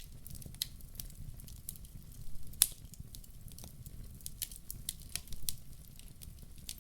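Fire in a fireplace crackling, with irregular sharp pops and one loud pop about two and a half seconds in, over a steady low rumble of the flames.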